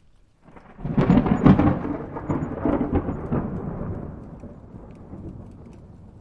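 A thunderclap: a sharp crackling burst of several cracks about a second in, then a long rolling rumble that slowly dies away.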